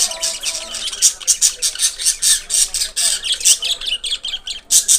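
Budgerigars chattering: a rapid, overlapping stream of short, high chirps and squawks.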